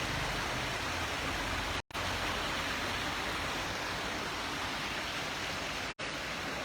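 Steady rushing noise of water, cutting out completely twice for a split second.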